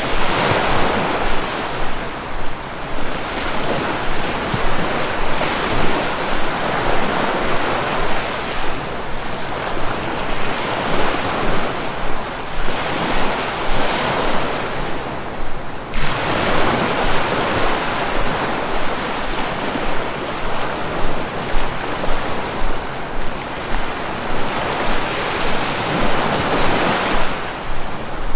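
Sea waves washing onto a shore, the surf swelling and easing in slow surges every ten seconds or so.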